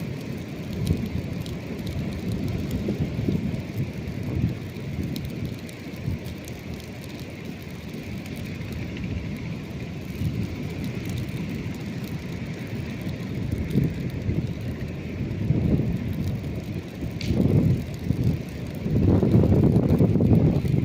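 Seaside ambience: a low rumble of surf and wind, swelling louder near the end, with faint occasional crackles from the campfire.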